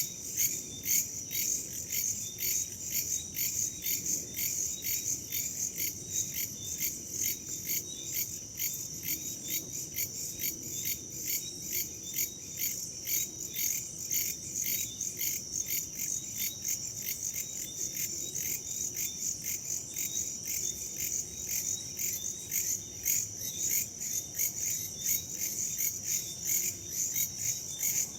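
Chorus of crickets and other night insects chirping steadily in rapid pulses, about three to four a second, with a high, even trill, over a faint low rustle.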